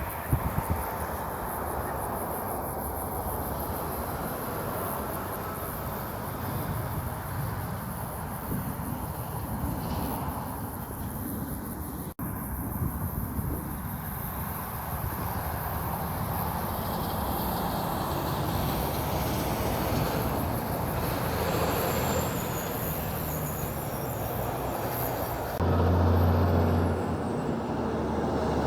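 Heavy trucks and road traffic passing, with engine rumble and tyre noise. The sound breaks off abruptly about twelve seconds in, and again near the end, where a louder truck engine with a low, steady hum takes over.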